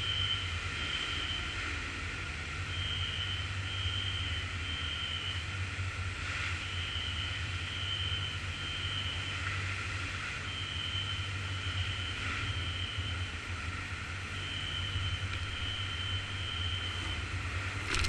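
Steady low machinery hum, with a high electronic beep sounding in groups of three about every four seconds.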